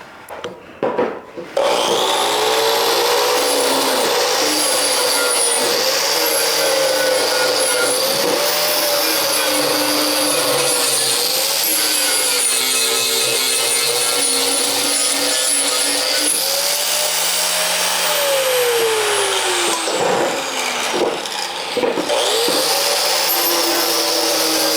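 Angle grinder with a 120-grit flap disc sanding the rough, drilled back side of a steel bar smooth, its motor whine wavering as the disc is worked along the metal. About 17 seconds in the pitch falls away as the grinder winds down, and after a short break it spins back up and carries on sanding.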